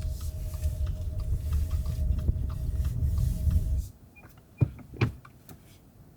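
A car's mechanism runs with a steady low rumble and a faint steady whine, then cuts off suddenly about four seconds in. Two sharp knocks follow about half a second apart.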